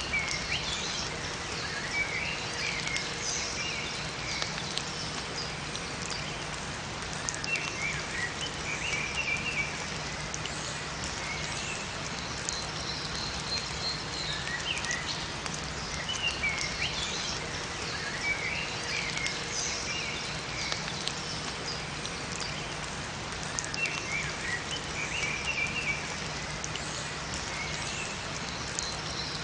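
Steady rain falling in a forest, with small birds chirping in short bursts every few seconds.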